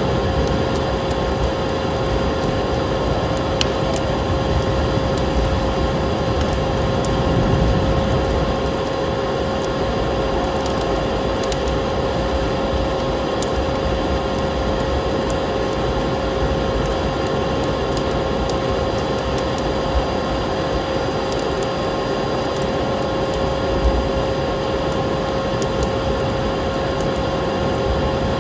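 Wood fire crackling in a fireplace, with scattered small pops, over a steady rushing noise and a constant faint hum-like tone.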